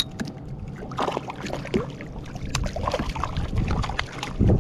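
Scattered light knocks and clicks of handling on a kayak, over a low wind rumble on the microphone that turns much louder near the end.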